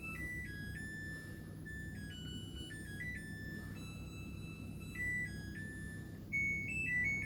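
Samsung heat pump dryer playing its end-of-cycle tune, a melody of clear electronic beeps stepping between a handful of high notes, which signals that the drying cycle has finished. A low hum runs beneath it.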